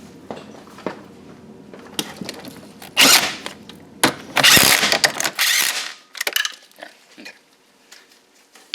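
Impact wrench driving motor mount bolts in two bursts, a short one about three seconds in and a longer one from about four and a half to six seconds, among light clicks and clinks of tools and sockets.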